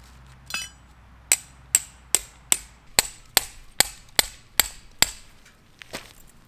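Hammering: ten sharp, ringing strikes at a steady pace of about two and a half a second, after a single metallic clink about half a second in.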